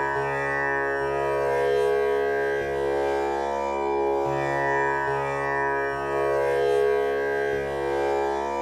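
Tanpura drone tuned to C# for a male voice, its strings plucked in turn in a slow repeating cycle. A dense ring of steady overtones sustains unbroken between the plucks.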